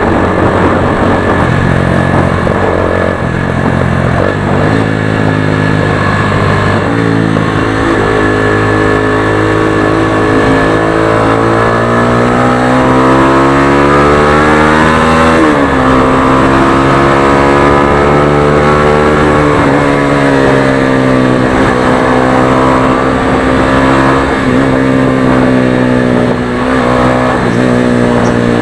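Motorstar Xplorer Z200S motorcycle's single-cylinder engine pulling hard on a ride. Its pitch climbs as it accelerates, then drops sharply at each gear change, several times over.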